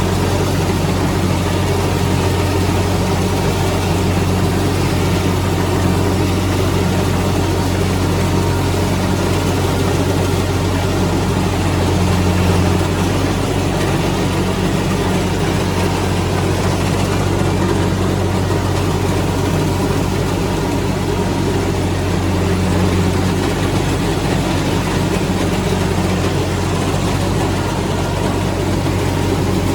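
Heavy farm diesel engine running steadily at a constant speed, a deep even drone with no revving.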